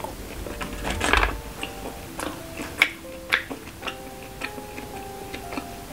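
Close-up chewing mouth sounds: short wet clicks and smacks, with a louder noisy burst about a second in and two sharp clicks just before the middle. Soft background music with a simple melody plays underneath.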